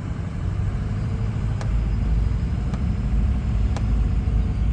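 Car driving, heard from inside the cabin: a steady low rumble of road and engine noise. A few faint sharp clicks come about a second apart from about a second and a half in.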